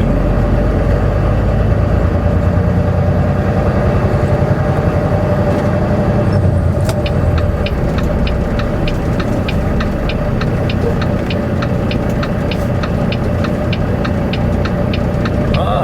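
Semi truck's diesel engine running at low speed in the cab, with a steady hum. From about six and a half seconds in, the turn signal ticks evenly, about three ticks a second, signalling a merge into the left lane.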